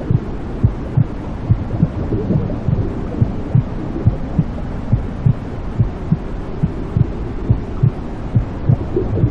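Steady white noise with a recorded heartbeat beating through it: low, even thumps about two a second, the womb-like sound used to lull babies to sleep.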